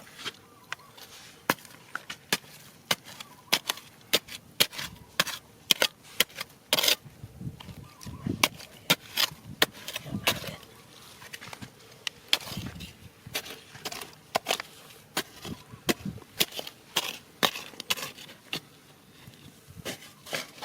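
A run of irregular sharp knocks and clicks, several a second, of hard things striking stone, as in digging among river rocks.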